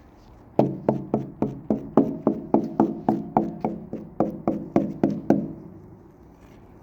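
A quick, even run of about eighteen hollow knocks, some four a second, each with a short pitched ring. The knocks start about half a second in and stop about five seconds in.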